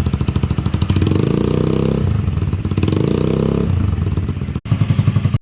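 Exhaust of a Honda Vario single-cylinder four-stroke scooter idling with a fast, even pulse, then revved up and let fall back twice, then idling again.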